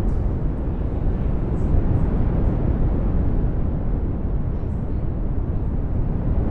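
Synthesised brown noise: a steady deep rushing noise, heaviest in the bass and thinning out toward the top.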